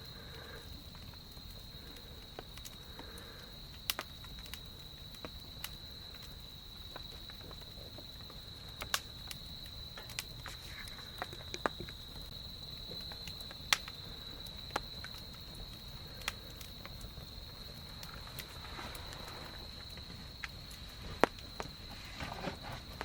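Insects trilling steadily on one high pitch, with scattered sharp cracks and pops from a wood campfire.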